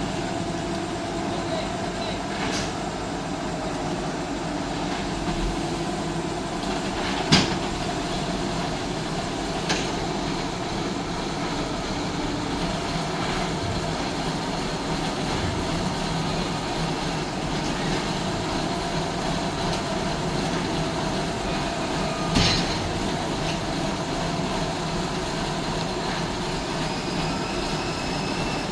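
A heavy engine running steadily under load while a cable lifts a truck out of a river. Two sharp knocks or clanks stand out, about 7 seconds in and again about 22 seconds in.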